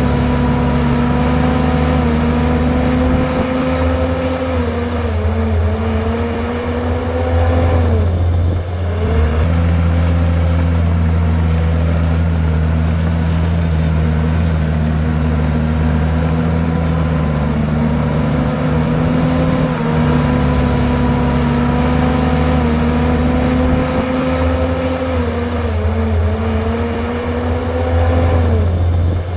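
Komatsu bulldozer's diesel engine running hard under load. Its pitch sags and recovers twice, about eight seconds in and near the end.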